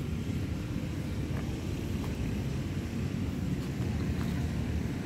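Steady low rumbling outdoor background noise, with a few faint ticks.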